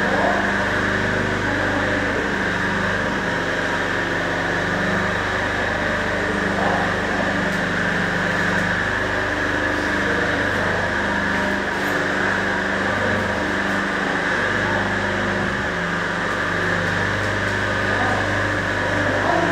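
CNC cutting machine running steadily, its motors humming in tones that shift in pitch every second or two over a constant hiss.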